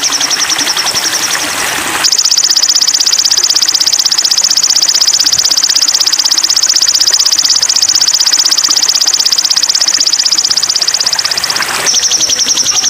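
Recorded songbird call for training a sogon: a loud, rapid, high-pitched trill. It steps up slightly in pitch about two seconds in, holds steady for about ten seconds, then drops back near the end.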